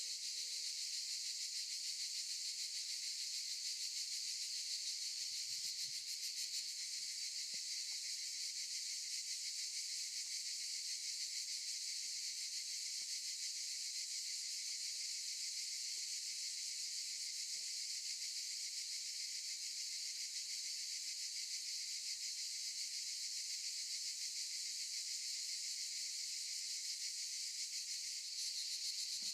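Cicadas buzzing in chorus: a steady, high, shrill drone that does not let up.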